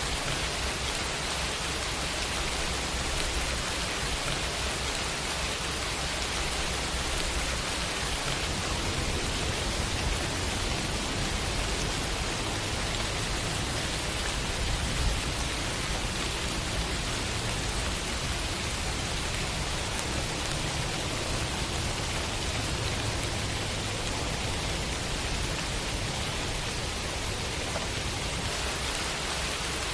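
Steady, dense rain falling on hard city surfaces, an even hiss with a faint low rumble underneath.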